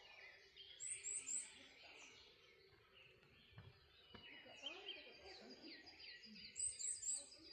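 Several wild birds singing in the morning: one gives three quick, very high falling notes twice, about a second in and near the end, while others keep up rapid repeated chirps.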